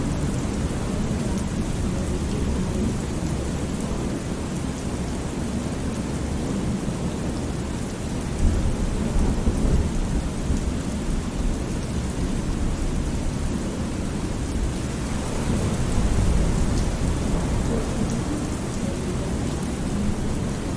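Thunderstorm ambience: steady rain with low rolling thunder, the rumble swelling about halfway through and again later on.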